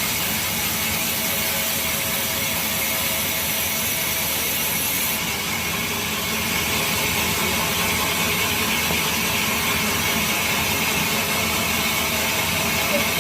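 Sawmill saw cutting through a mahogany log: a steady, unbroken mechanical running with a faint steady whine in it.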